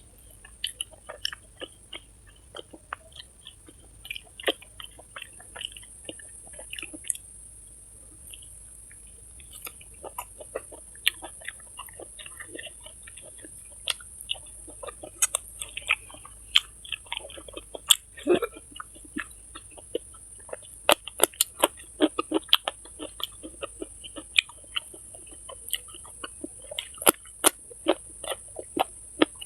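Close-miked wet chewing and lip smacking while eating rice, meat and fried small fish by hand: many quick irregular clicks and smacks, coming faster in the second half, over a steady high hiss.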